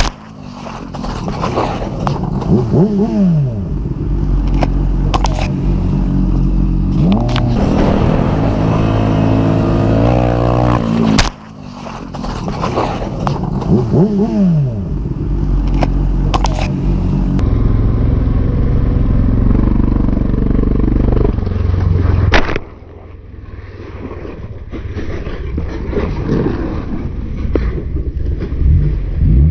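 Honda Grom 125's small single-cylinder engine revving up and falling back repeatedly during a wheelie attempt, with scraping and clatter as the bike goes down. The sound breaks off abruptly twice, about 11 and 22 seconds in.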